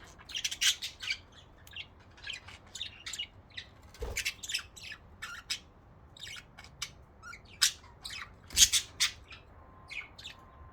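Budgerigars chattering: short, sharp chirps and squawks in quick, irregular succession. A knock comes about four seconds in, and a louder one, the loudest sound here, comes about two-thirds of the way through.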